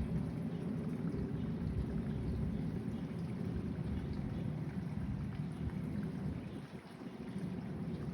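Wind buffeting the microphone, a gusty low rumble that eases briefly near the end.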